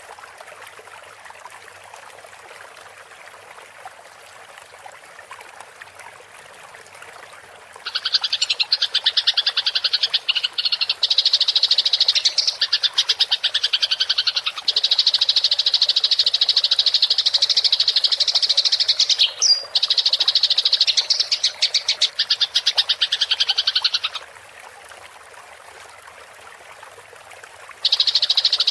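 Eurasian tree sparrows (burung gereja) giving their rapid, high-pitched fighting chatter. It begins about a third of the way in, runs for around sixteen seconds, and starts again at the very end. Between bursts there is only a faint steady hiss of running water.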